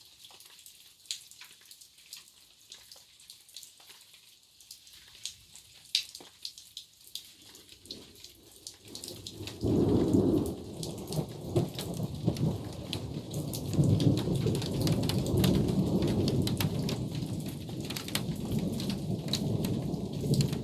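Rain falling in scattered drops and pattering on surfaces in a thunderstorm. About ten seconds in, a loud, low rumble of thunder sets in and keeps rolling with swells.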